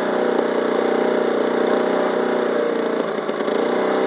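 Petrol lawn mower engine running steadily while being run to destruction, its exhaust glowing red. About three seconds in it stumbles briefly, then settles into a slightly different steady note.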